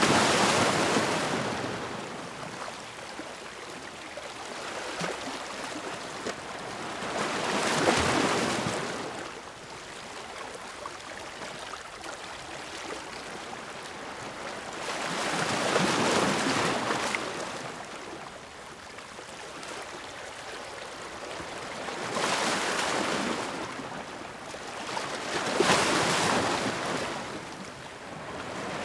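Sea waves crashing against rocks: five surges of rushing surf, each swelling and dying away over a few seconds, with a softer wash of water between them.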